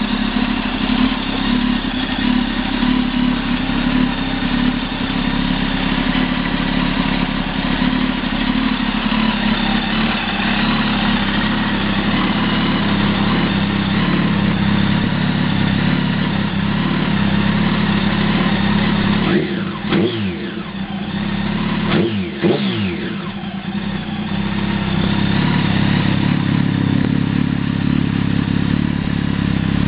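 2005 Kawasaki ZX-10R's inline-four running through a Muzzy aftermarket exhaust, idling steadily, with two quick throttle blips a couple of seconds apart about two-thirds of the way through.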